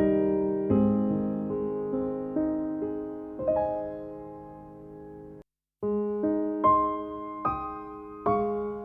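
Slow, gentle piano music: single notes and chords struck about once a second, each ringing and fading, with a brief cut to silence about halfway through.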